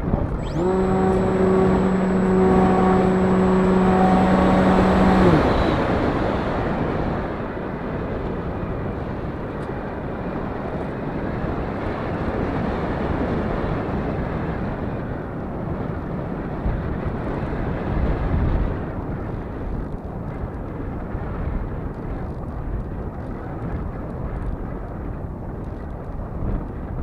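The motor and propeller of a Kunai RC model run with a steady pitched whine for about five seconds at launch, then cut off suddenly. After that, a steady rush of wind noise on the microphone.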